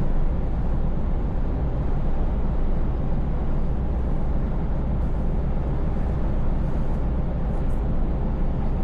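Scania S580 truck's V8 engine running steadily while cruising, a low, even drone mixed with road and tyre noise.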